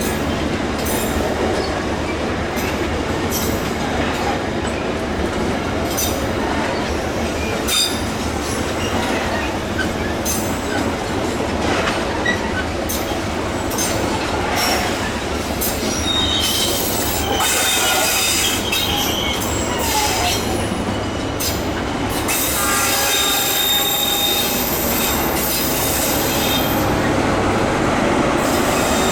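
Indonesian passenger train running past, its wheels clacking over the rail joints with a steady rumble. High-pitched wheel squeal rises over it in the second half.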